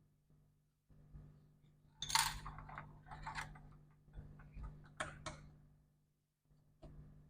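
Small clicks and light metallic clinks from handling screwdrivers, screws and laptop parts during disassembly, the loudest a short rattle about two seconds in, with further clicks around three and a half, five and seven seconds. A faint steady hum lies underneath.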